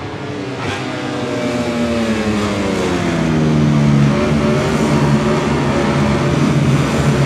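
MotoGP racing motorcycle engine at high revs. Its pitch drops over a couple of seconds, then holds steady as it grows louder.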